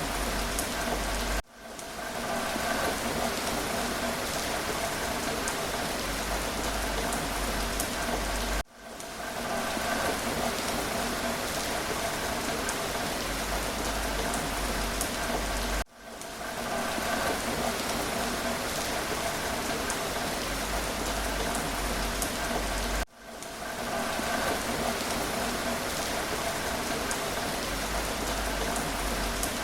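Steady rain falling. Four times, about every seven seconds, the sound drops out for an instant and fades back in.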